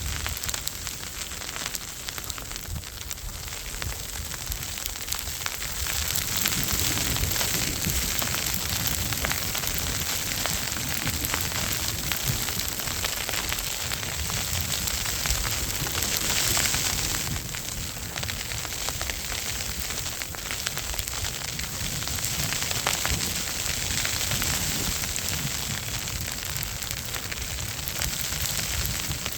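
Outdoor ambience in a heavy snowstorm: a steady crackling hiss over a low, unsteady rumble, growing louder about six seconds in.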